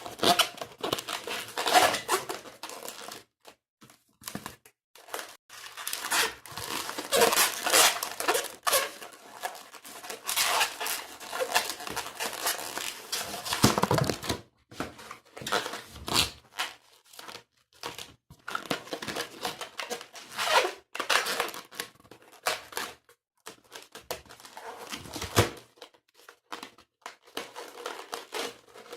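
Latex modelling balloon being twisted and handled into a flower stem: squeaking, rubbing and crinkling of the rubber in irregular bursts, with a few short pauses.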